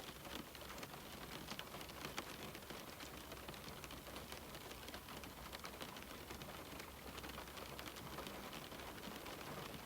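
Rain falling on a window: a steady hiss of rain with many small, irregular taps of drops striking the glass.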